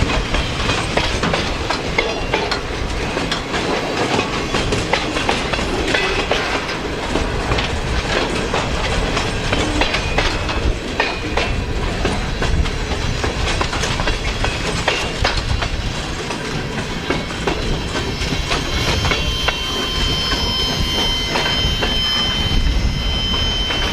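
Freight cars of an Escanaba & Lake Superior train rolling past, wheels clicking steadily over the rail joints. A high, steady wheel squeal joins in over the last few seconds.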